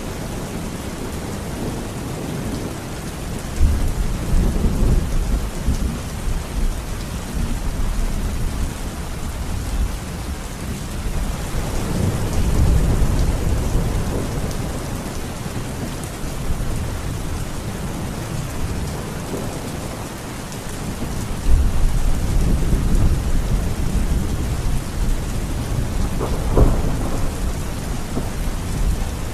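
Heavy, steady rain with rolls of thunder: three long, low rumbles swell and fade, and the last ends in a sharp crack a few seconds before the end.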